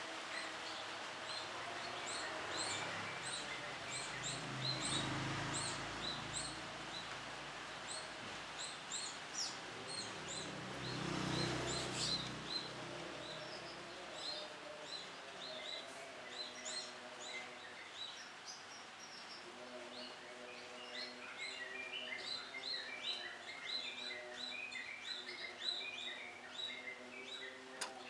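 Canaries chirping: many short, quick, high chirps that come thicker near the end, over a steady background hiss. A low rumble swells and fades twice, about five and eleven seconds in.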